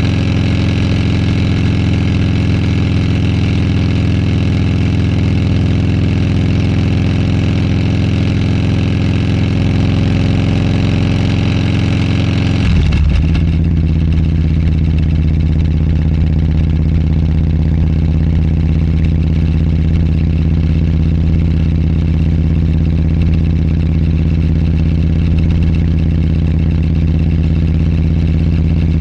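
Motorcycle engine running steadily while riding; about 13 seconds in its note drops suddenly to a lower, steady pitch and the higher noise fades.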